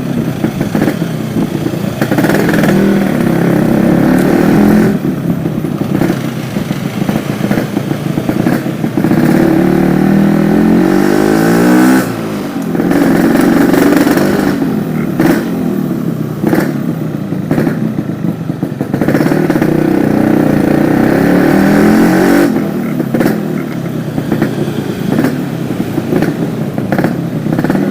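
Yamaha RX-King two-stroke single-cylinder motorcycle engine running loud through a stock silencer fitted with only the main filter insert. It is revved up and down repeatedly, with the pitch climbing and then dropping back sharply several times.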